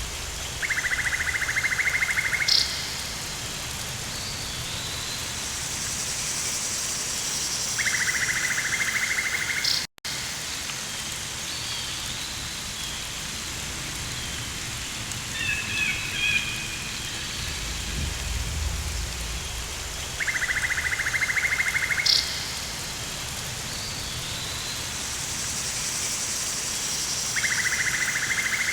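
Looped rainforest ambience: steady rain hiss with a pulsing, rasping buzz that comes in for about two seconds four times, short high bird chirps, and a low rumble like distant thunder about two-thirds of the way in. The sound cuts out for an instant about a third of the way in, and the whole pattern repeats about every twenty seconds.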